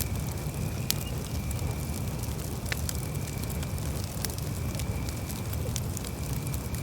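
Campfire burning: a steady low rumble of flames with scattered sharp crackles and pops from the burning wood, one louder pop about a second in.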